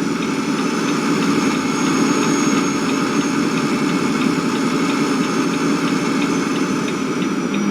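An engine running steadily, with a light regular ticking about three times a second over it.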